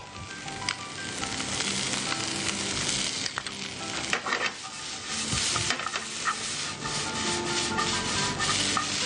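Chopped vegetables (cabbage, carrot, green beans, onion, spring onion, green chilli and tomato) sizzling in a little oil in a hot pan as they are stir-fried without water, with frequent scrapes and taps of the stirring utensil against the pan.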